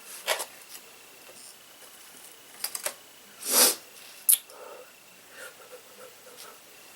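Close-up eating sounds: scattered wet mouth clicks and smacks while chewing, with one short noisy breath through the nose about halfway through, the loudest sound.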